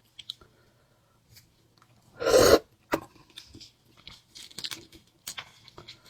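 A person chewing and crunching food close to the microphone, with small wet clicks and crackles. Just over two seconds in there is one short, loud mouth noise, the loudest moment.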